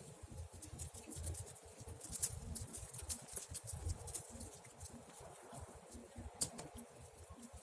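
Campfire crackling with irregular snaps and pops of burning wood, two of them sharper and louder: one about two seconds in and one near the end.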